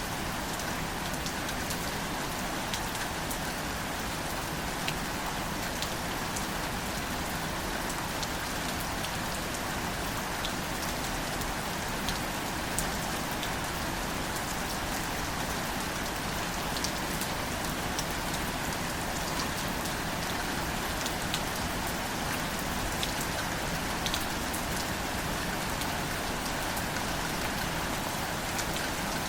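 Gentle, steady rain falling on greater celandine wildflowers and their leaves, with single drops ticking here and there over the even patter.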